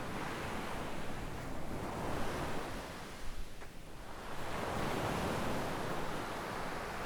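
Small waves breaking and washing up a sandy shore, a steady hiss that ebbs briefly past the middle and then swells again as the next wave comes in.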